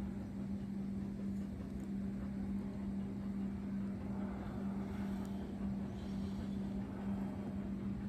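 A steady low hum, one constant tone over faint background noise, with no distinct handling sounds standing out.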